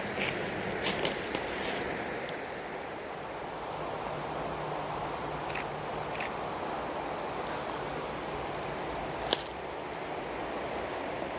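Steady rush of river water running over rapids, with a few sharp clicks scattered through it, the loudest about nine seconds in.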